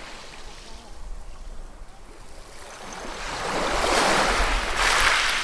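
Ocean waves breaking on a shore: a quieter wash, then a wave builds about three seconds in and crashes loudest near the end before drawing back.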